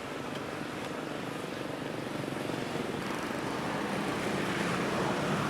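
Motor vehicle traffic: steady engine and tyre noise that grows gradually louder as a vehicle approaches.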